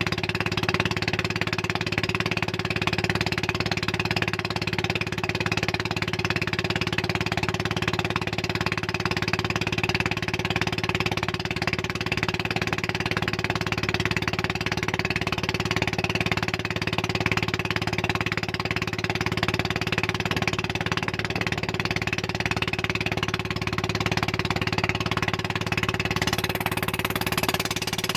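Motorboat engine running steadily, a constant drone with no change in pitch.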